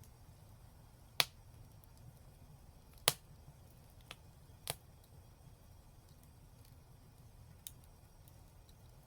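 Wood fire crackling: five sharp, scattered pops over a low steady rumble, the loudest about three seconds in.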